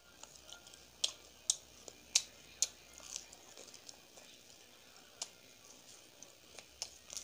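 Crunchy chewing of fried gol pitha (sweet fried dough balls): a run of sharp crunches about half a second apart in the first three seconds, then a few more spaced out.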